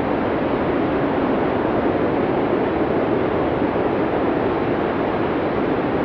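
Blizzard wind blowing steadily: an even, full rushing noise with no gusts or breaks.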